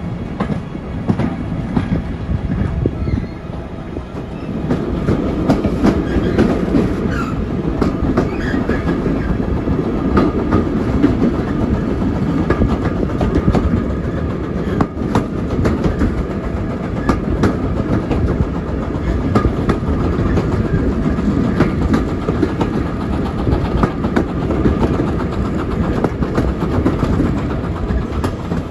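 Railway carriage of a steam-hauled heritage train running along the line: a steady rumble from the wheels with sharp clicks as they cross rail joints, heard from an open carriage window. The running gets louder about four seconds in.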